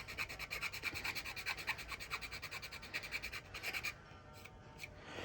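Quick rhythmic scraping strokes on a plastic model-kit part, several a second, as thick moulding flashing is cleaned off; the scraping stops about four seconds in.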